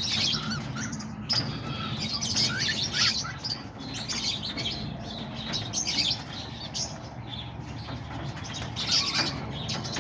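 A flock of cockatiels chirping and calling, many short calls overlapping one another.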